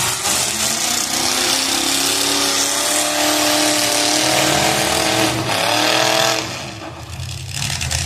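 Demolition derby car engine revving hard, its pitch climbing over a loud rushing noise, then easing off about six and a half seconds in.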